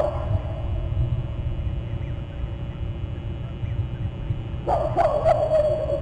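Crows cawing: one harsh caw at the start and a quick run of three or four caws near the end. A steady low rumble runs underneath.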